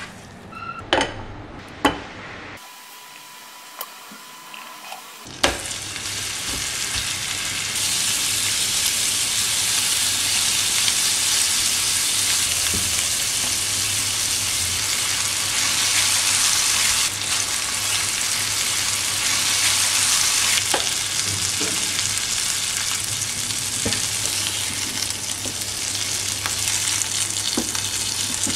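Seasoned chicken breast pieces sizzling steadily as they fry in butter in a nonstick pan, with occasional scrapes of a spatula stirring them. A few sharp knocks come in the first couple of seconds, and the sizzle starts about five seconds in.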